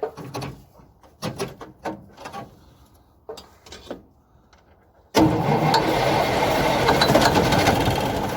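A few light knocks and clicks, then about five seconds in the starter suddenly kicks in and cranks the old International truck's engine, which has sat unstarted for decades and is being coaxed with ether. The cranking goes on loud and steady to the end.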